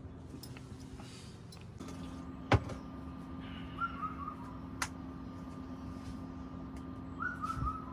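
A steady low hum with a sharp knock about two and a half seconds in and a fainter click later, plus two short runs of quick chirping notes.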